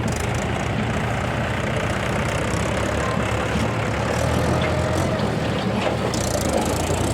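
Heavy diesel machinery engine running steadily at a low, even pitch.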